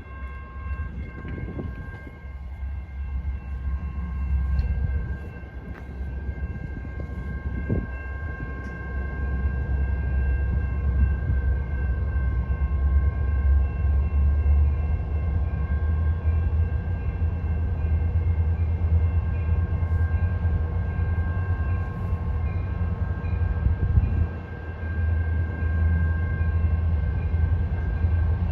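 Freight train led by a CN SD75I diesel-electric locomotive rolling past with a deep, steady rumble that grows louder about ten seconds in. Several steady high ringing tones sound over it throughout.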